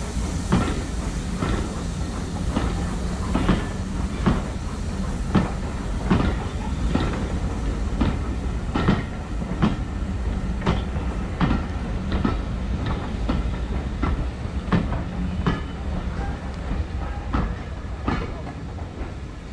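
Railway carriage wheels clicking over rail joints in a steady clickety-clack, about once a second, over a continuous low rumble of the train on the move.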